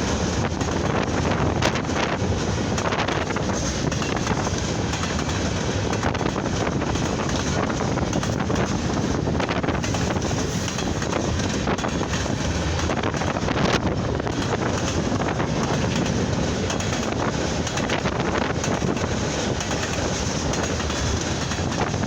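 Freight train cars rolling past, a steady rumble with faint scattered wheel clicks, with wind buffeting the microphone.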